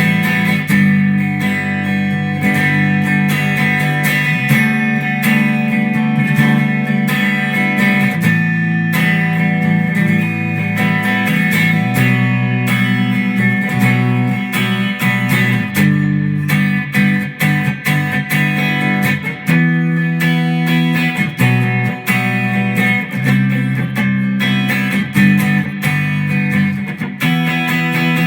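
Guitar played continuously, with notes and chords picked one after another and left ringing.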